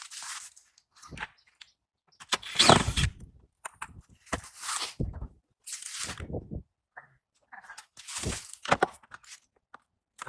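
Irregular scrapes, rustles and clicks of hands working at a car's plastic wheel-arch liner and its screws.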